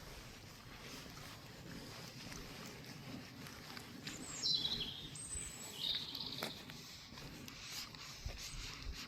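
Songbirds calling over a faint steady background: a high whistle falling in pitch about four seconds in, then a short chirp about a second later. A single sharp click follows the chirp.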